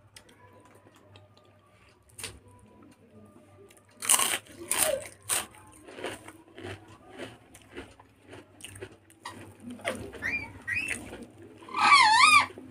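Close-miked crunching bites into crisp fried food about four seconds in, followed by a run of crunchy chewing. Near the end come two short high wavering calls from an animal, the second the loudest sound here.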